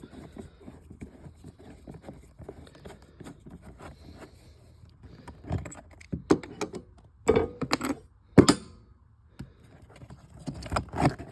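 Hand tools working on metal: a Phillips screwdriver turning out the start solenoid's mounting screws, with a run of small clicks and scrapes and a handful of louder metallic clinks in the second half.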